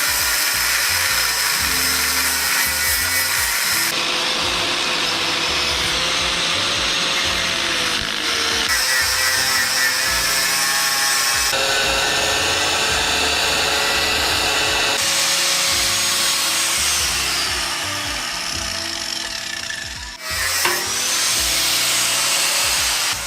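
A handheld power tool cutting and grinding metal, removing welded-on passenger footpegs from a steel motorcycle frame. It makes a loud, steady grinding noise with a whining tone, and the sound changes abruptly several times. Background music plays underneath.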